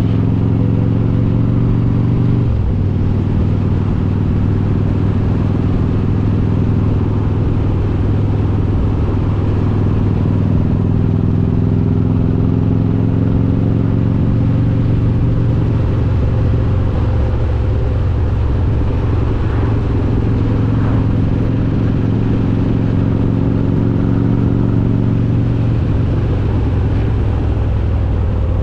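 A Harley-Davidson Road King's S&S 95-cubic-inch V-twin with Super Stock heads, running under way. The engine note climbs slowly as the bike pulls, and drops sharply twice, about two seconds in and near the end, as it shifts gear.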